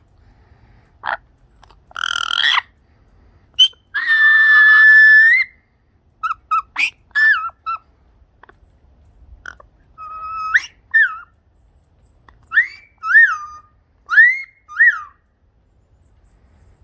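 A bird calling in clear whistled notes: scattered short chirps, one long held note, then a run of quick rising-and-falling whistles.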